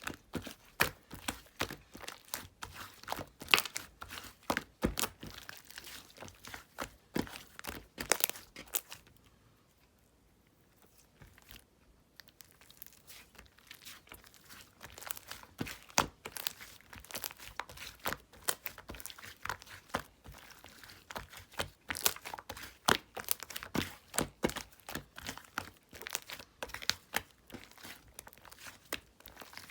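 Slime being squeezed and stretched by hand, giving a dense, irregular run of crackling pops and crinkles, with a pause of about three seconds partway through.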